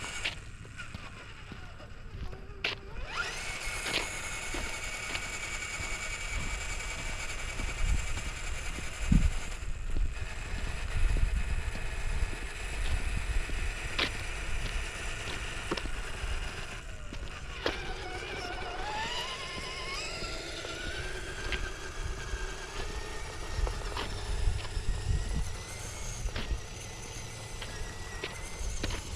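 Electric motor and gearbox of an RC4WD TF2 scale crawler whining, the pitch rising and falling with the throttle, with scattered sharp clicks and knocks.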